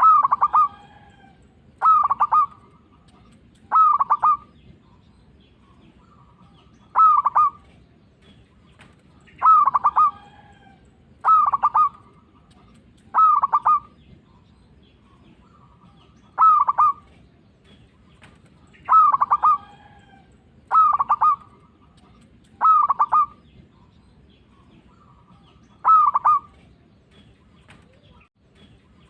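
Zebra dove (perkutut) singing: a dozen short, quick-noted coos, each under a second, repeated every two to three seconds with a few longer pauses.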